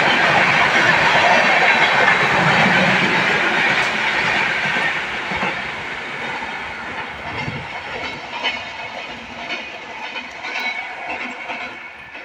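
An Indian Railways express train's coaches rolling past on the track, with the wheels clattering rhythmically over the rail joints. The rumble is loud at first, then fades steadily as the tail of the train moves away.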